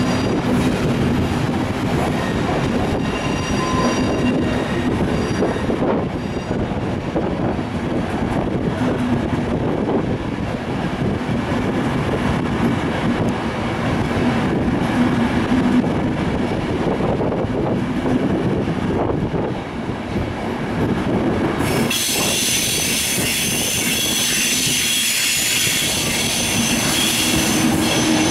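Passenger carriages of a departing loco-hauled train rolling past on the platform track, with steady rumble and wheel clatter. About three quarters of the way in, a loud high-pitched metallic squeal sets in and keeps on.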